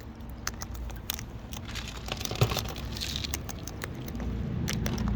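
Wild cockatoos feeding at close range: irregular sharp clicks and taps of beaks and claws picking at the food. A low rumble underneath grows a little louder near the end.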